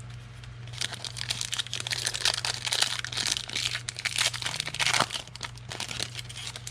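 Foil wrapper of a trading card pack being torn open and crinkled: a dense crackling that starts about a second in, lasts about four seconds, then thins to a few light clicks and rustles. A steady low hum runs underneath.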